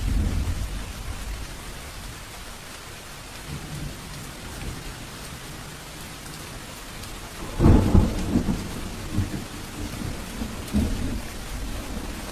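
Steady rain with thunder. A low rumble comes at the start, then a loud, cracking clap about seven and a half seconds in that rolls on in several diminishing peals.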